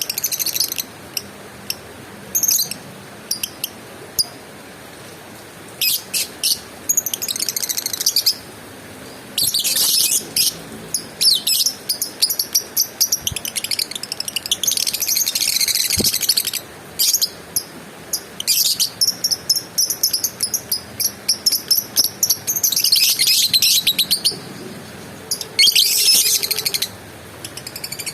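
Lovebird chattering in rapid, high-pitched trilling bursts, some lasting several seconds, broken by short pauses.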